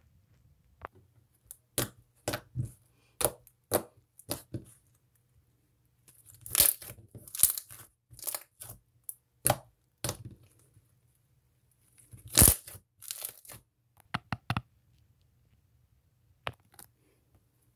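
Homemade slime being poked and squished by hand, giving a series of sharp pops and clicks with short sticky crackling bursts between quiet pauses.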